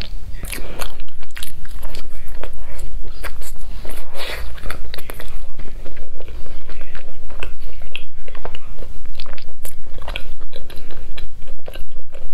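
Close-up chewing of a soft bread sandwich filled with purple sticky rice, in a quick, steady rhythm of mouth sounds.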